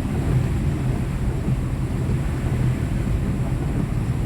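Steady low road and engine rumble heard from inside a moving vehicle.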